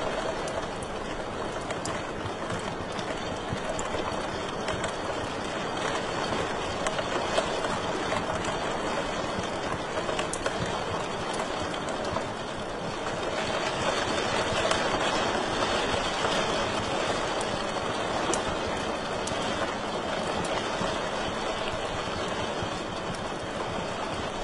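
Wood fire crackling in a fireplace: a steady rushing hiss with sharp pops and crackles scattered irregularly throughout.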